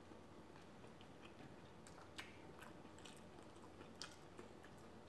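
Faint chewing and mouth sounds of someone eating soft rice and curry, with a few small sharp clicks.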